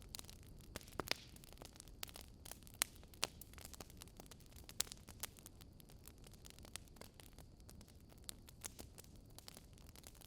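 Wood fire crackling: irregular sharp pops and snaps from burning logs over a low, steady rumble of flame.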